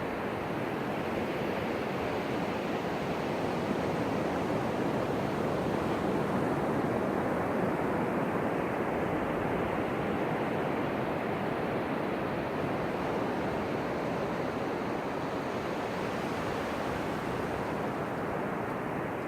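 Ocean surf breaking and washing onto a beach, a continuous rushing wash that swells gently and eases off.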